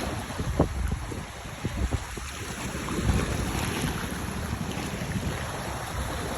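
Wind buffeting the microphone in irregular low gusts over the steady wash of sea waves.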